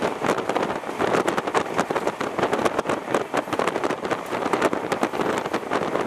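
A passenger train running at speed, heard from the coach: a steady rushing noise with dense, irregular rattling and clicking throughout.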